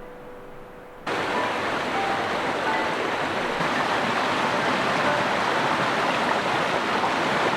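Small creek flowing: a steady rushing of water that cuts in suddenly about a second in.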